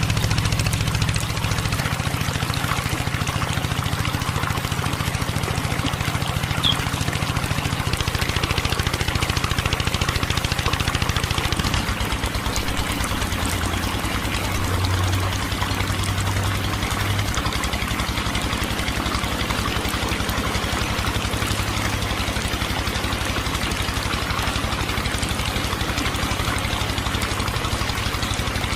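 A small engine running steadily with a fast, even pulse; its tone shifts about twelve seconds in.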